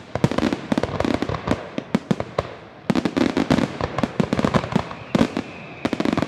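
Fireworks going off: rapid strings of sharp bangs and crackles, with fresh volleys starting about three seconds in and again near the end. A faint whistle sounds just before the last volley.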